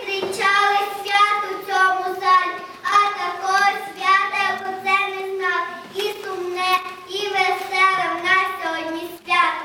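A child singing a slow melody, holding each note steadily, with no loud accompaniment.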